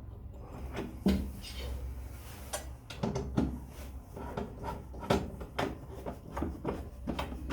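Household things being handled and put away: a string of irregular knocks and clatters, the loudest about a second in, over a low steady hum.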